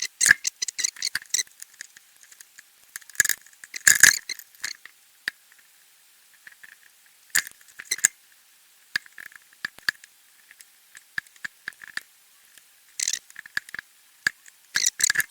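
Irregular small clicks, taps and rustles of hands working electrical cables and heat-shrink tubing into a plastic junction box. Louder bouts of handling come about three to four seconds in and near the end.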